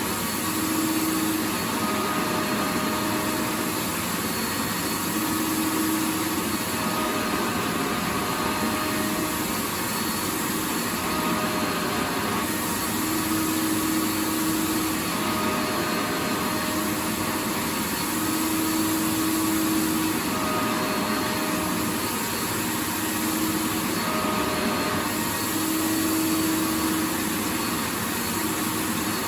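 Vacuum cleaner motor running steadily with a hiss of rushing air, its faint hum swelling in and out every few seconds.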